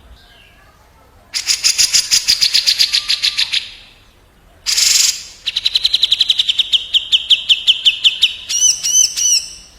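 Cucak jenggot (grey-cheeked bulbul) and kapas tembak songbirds trading fast, rolling trills. A rapid run of repeated notes comes first, then a short harsh burst about five seconds in, then another long run of quick falling notes. A few looping whistled notes close it near the end.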